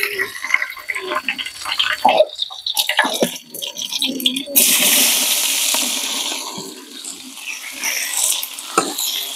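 Curry leaves and whole spices crackling and popping in hot oil in an aluminium pot, then a sudden loud sizzle about four and a half seconds in as a plateful of sliced onions goes into the oil, fading over the next few seconds.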